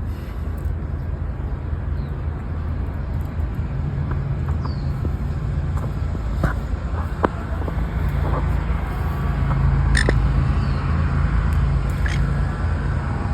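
Outdoor field recording dominated by a steady low rumble, with a few faint, short high bird chirps and light clicks scattered through it.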